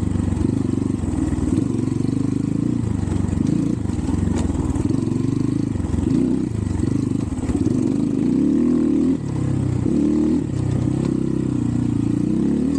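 Xpro Templar X 250 dirt bike's 250cc single-cylinder four-stroke engine running under load on the trail, its revs rising and falling again and again, with a brief drop about nine seconds in.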